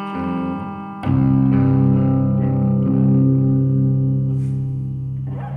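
Electric guitar played through effects, with a low chord struck about a second in and left to ring, fading away near the end.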